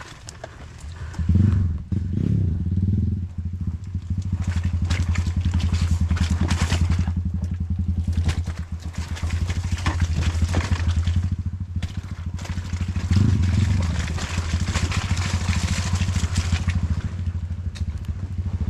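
Single-cylinder trail motorcycle engine running under load over rough ground, swelling in revs about a second and a half in and again near thirteen seconds, with clattering from the bike and terrain.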